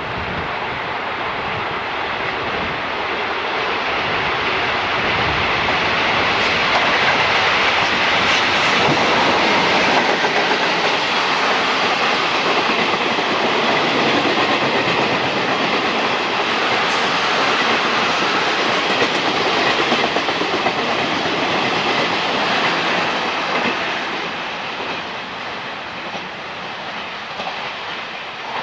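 A train passing through the station: its running noise grows over the first few seconds, stays at full level for about fifteen seconds, then fades away near the end.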